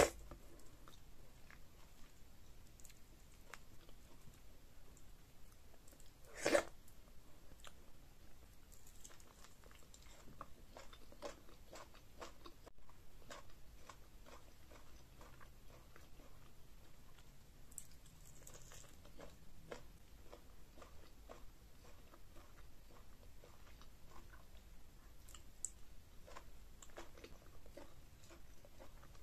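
Close mouth sounds of eating by hand: pounded yam fufu with slimy ogbono okra soup and meat, chewed with many soft wet clicks and smacks. Two louder brief mouth noises stand out, one right at the start and one about six and a half seconds in.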